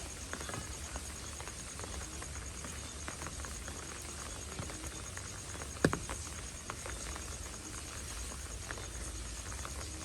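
Steady rain falling on pavement, with scattered drops ticking and one sharp, louder drip knock about six seconds in.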